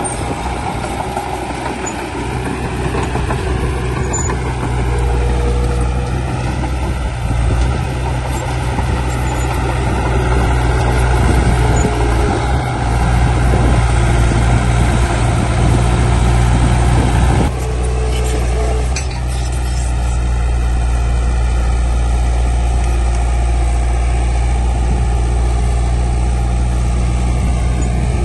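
Diesel engine of heavy earthmoving machinery running steadily under work, with a sudden change in its sound about two-thirds of the way through.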